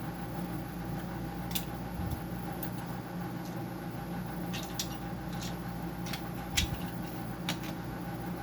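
Scattered light clicks and taps of parts and tools being handled during a dehumidifier teardown, the sharpest about six and a half seconds in, over a steady machine hum.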